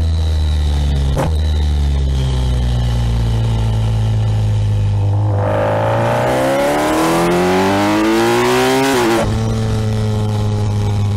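Kawasaki Ninja 1000SX inline-four engine heard from on the bike: a click about a second in, then the engine note falls for a few seconds as the bike slows. About five seconds in it is opened up hard, the note rising steeply for about four seconds, then cutting off sharply and settling back to steady running.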